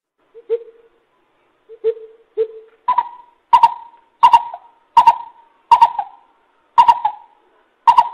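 Coucal hooting in a series of deep notes: three scattered lower hoots, then from about three seconds in a steady run of seven higher hoots about 0.7 s apart.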